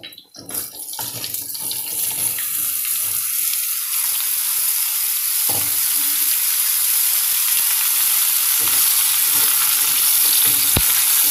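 Raw pumpkin pieces dropped into hot oil in a kadhai, with a few knocks as they land, then sizzling steadily. The sizzle grows louder over the first few seconds and holds, and the pieces are stirred with a spatula near the end.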